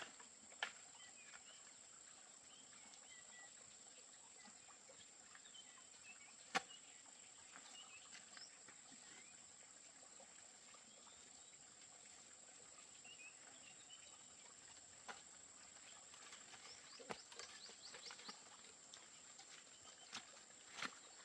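Near silence: faint outdoor ambience with a steady high-pitched hum, faint scattered chirps, a sharp click about six seconds in, and a few more small clicks near the end.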